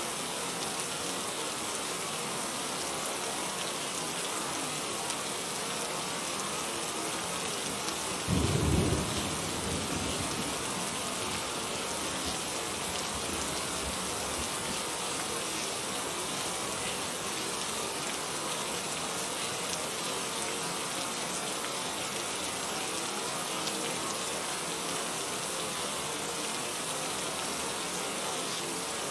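Steady rain, with one brief low rumble of thunder about eight seconds in.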